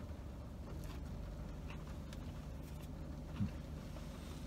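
Faint chewing of a fried chicken sandwich, with a few soft mouth clicks and a brief low throat sound about three and a half seconds in, over a steady low hum in a car cabin.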